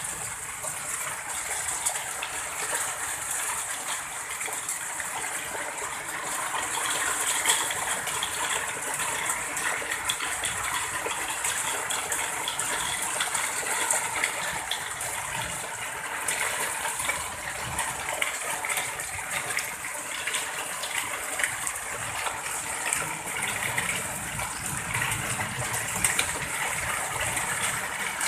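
Rushing water gushing steadily and continuously, a dense hiss without pause.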